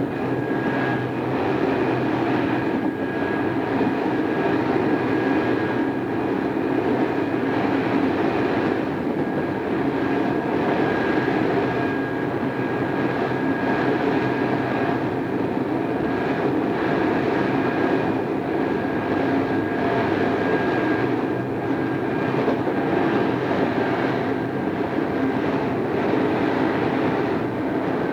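Odakyu 2600 series electric train running at a steady speed: a continuous rumble of wheels and motors with a thin, steady high tone above it, heard from a cassette-tape recording.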